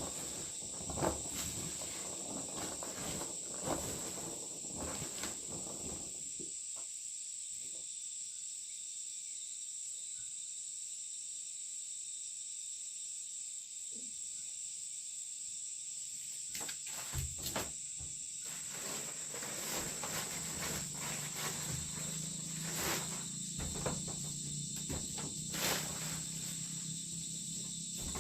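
Insects chirping in a continuous high-pitched drone, with scattered short clicks and knocks over it. A low steady hum comes in a little past two-thirds of the way through.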